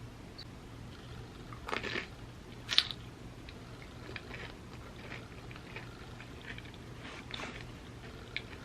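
Close-miked crunching and chewing of chips: two loud crunches around two and three seconds in, followed by softer chewing crunches.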